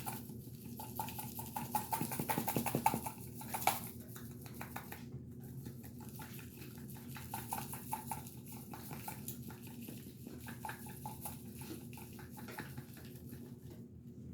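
A container of dry seasoning rub being shaken, the granules rattling in quick ticks, busiest and loudest about two to four seconds in, then lighter shakes and rustles.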